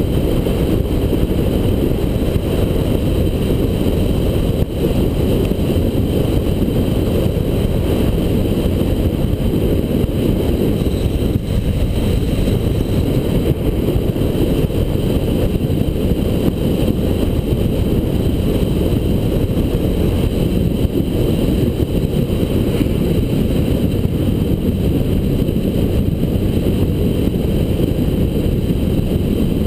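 A 1979 Honda Goldwing GL1000's flat-four engine running steadily at road speed, heard from a mount on the motorcycle under heavy wind rush on the microphone.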